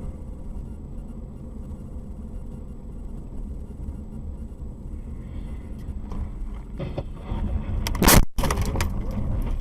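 Car road noise from a dashcam: a steady low rumble of a moving vehicle, with a loud sudden burst of noise about eight seconds in.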